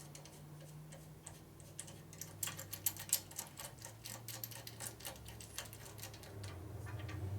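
Light, irregular metallic clicks and ticks from hand tools and fasteners being worked on a motorcycle's front fork and triple tree, over a faint steady low hum.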